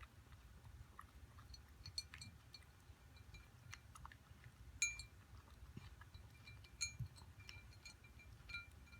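A cat eating dry kibble: faint crunching with sharp clinks that ring off the food bowl every second or so, the loudest about five seconds in.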